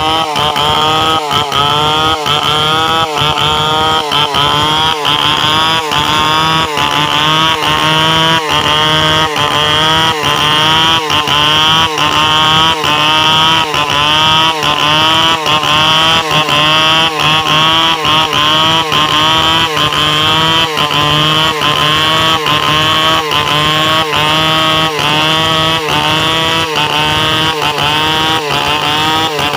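Stihl 070 two-stroke chainsaw running loud at high revs, its pitch rising and falling in a steady rhythm about one and a half times a second.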